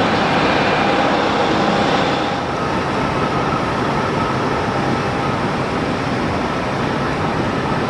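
Jet airliner engines running loud and steady, with a faint whine of steady tones over the noise. It gets a little quieter and duller about two seconds in.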